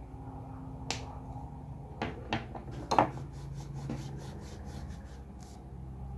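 Drawing tools handled on a desk: a few sharp clicks and taps, the loudest about three seconds in, then a quick run of light scratchy ticks, about five a second. A steady low hum runs underneath.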